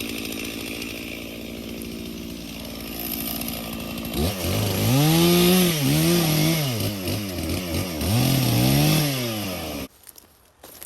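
Stihl chainsaw running steadily, then about four seconds in growing louder with its revs rising and falling again and again. The engine cuts off abruptly near the end.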